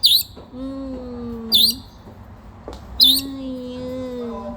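Pet bird calling in a repeating pattern: a sharp, high whistle followed by a long, lower drawn-out note, four whistles about a second and a half apart.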